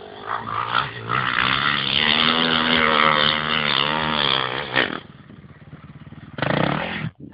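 Dirt bike engine revving hard under load on a steep hill climb, its pitch swelling and falling. It drops off about five seconds in, then comes a short loud burst of revs near the end.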